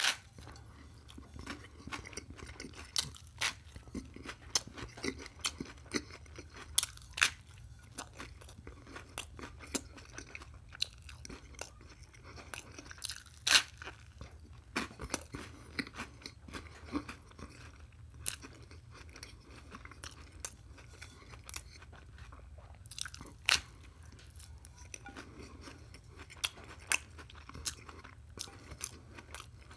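Chewing and biting into a slice of toast topped with scrambled egg, melted cheese and ketchup, with many irregular sharp crunches of the toasted bread over a low steady hum.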